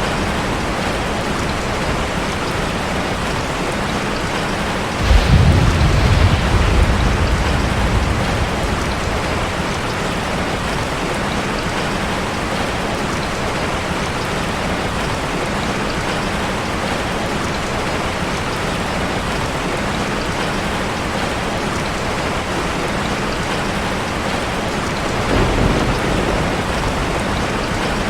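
Heavy rain drumming steadily on a car. Thunder rumbles low about five seconds in for a few seconds, and again more softly near the end.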